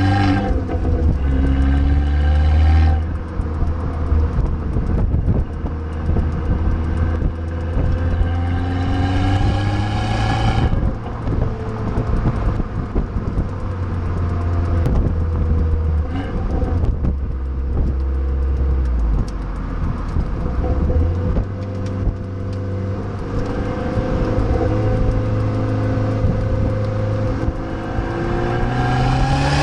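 A tuned Abarth 595's 1.4-litre turbocharged four-cylinder engine accelerating hard through the gears. The engine note rises and drops back sharply at each gear change, several times over.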